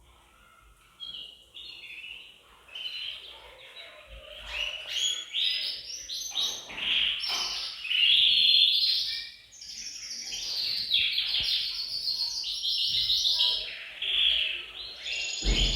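Male domestic canaries singing, with fast rolling trills of rapidly repeated notes and chirps that start about a second in and overlap into continuous song.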